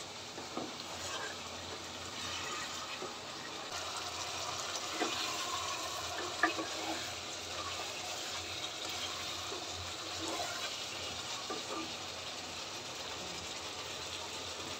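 Chicken sizzling in a pot as its yogurt sauce cooks down, stirred with a wooden spoon: a steady hiss with a few light knocks of the spoon, about five and six and a half seconds in.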